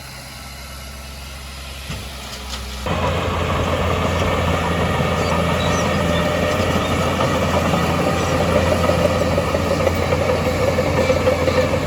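Heavy earthmoving machinery with diesel engines running, quiet and steady at first. About three seconds in, it turns suddenly louder and rougher and stays that way.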